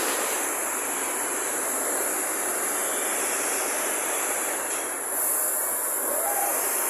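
Steady industrial noise of a robotic welding shop: a continuous hiss and rumble of welding and machinery, getting a little louder about five seconds in.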